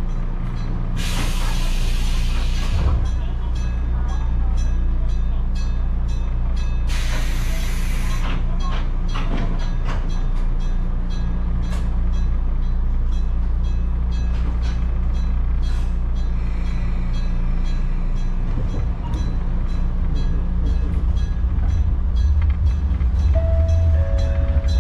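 Electric railcar standing at a stop with the steady low hum of its onboard equipment, broken by two short hisses of compressed air about a second and seven seconds in. From about eighteen seconds in the running noise changes and grows louder as the car pulls away.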